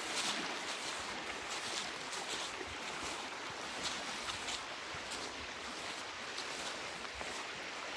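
Footsteps crunching on a frozen trail at a steady walking pace, about one step every two thirds of a second, over a steady rushing background noise.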